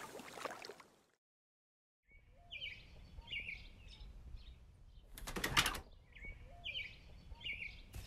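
Songbird chirping over a low outdoor background hum, starting about two seconds in after a moment of silence. The same short phrase of chirps comes again about four seconds later, with a brief rustling burst between the two.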